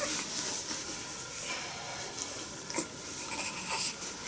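Soft rustling and rubbing from a baby's nappy and clothes being handled during a nappy change, with a couple of faint clicks over a steady hiss.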